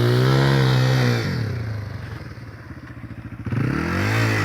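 Dirt bike engine running at steady revs, dropping off to a slow idle about a second in, then revving back up near the end.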